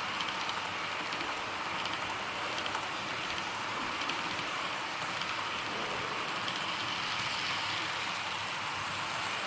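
Double-stack container freight train rolling past: a steady rushing noise of wheels on rail, with faint scattered clicks.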